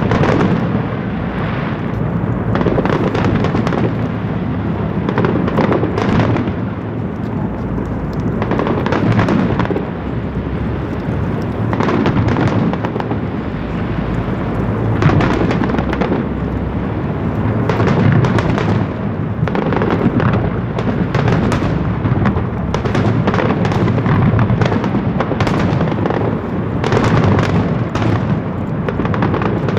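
Fireworks display: a dense, unbroken run of aerial shell bursts, booms overlapping one another with sharp bangs and crackle among them.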